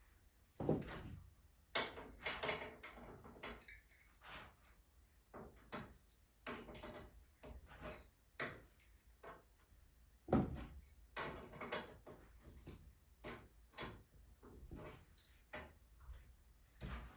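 Irregular metallic clinks and knocks of tools and hardware being handled during work on a garage door torsion spring, with short pauses between strokes.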